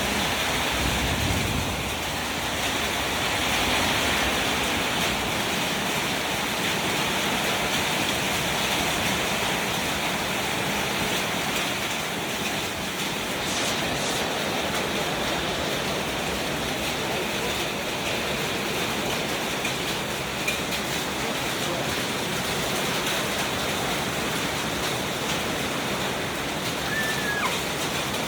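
Heavy rain falling steadily in a thunderstorm that is also dropping hail.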